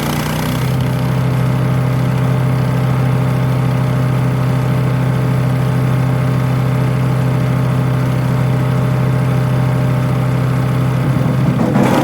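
RATO 212cc single-cylinder petrol engine of a 7HP wood chipper running steadily, its pitch dropping slightly about half a second in. Near the end a louder, rougher noise joins the engine.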